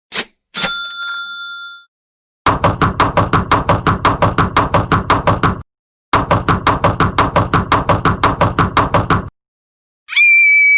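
A string of sound effects. First a quick click and a single bell ding that rings for about a second. Then two runs of rapid, evenly spaced knocks, about eight a second and each about three seconds long. Near the end a loud steady buzzer tone begins.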